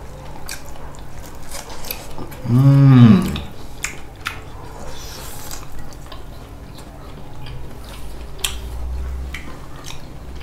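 Eating at a table: scattered clicks of cutlery on plates and chewing. About two and a half seconds in, a short hummed voice sound rises and falls in pitch.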